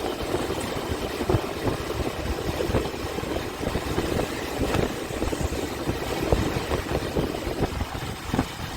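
Motorcycle running on the move, under a dense, uneven rushing rumble.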